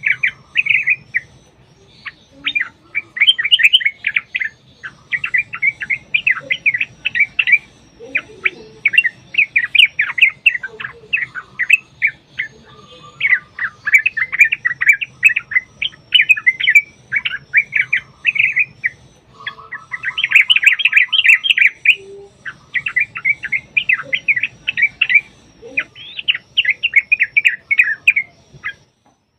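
Yellow-vented bulbul (trucukan) singing long, rapid chattering runs of bubbly notes, phrase after phrase with short pauses between, like a bird answering a rival. The song stops about a second before the end.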